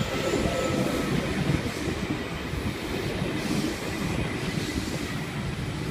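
V-set electric intercity train rolling slowly into the platform, with a steady rumble of wheels on rail. A faint wheel squeal fades out about a second in.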